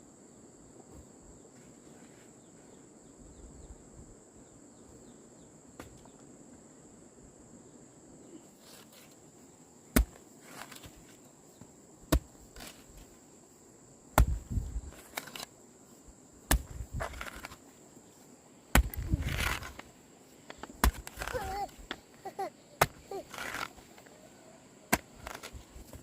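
Sharp strikes of a hand tool chopping, about one every two seconds from roughly ten seconds in, with noisier scraping between strikes. A steady high-pitched whine runs underneath.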